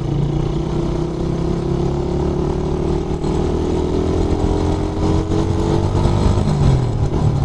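Suzuki Raider 150 motorcycle engine running under way, its note rising slowly as the bike picks up speed, then dropping back near the end.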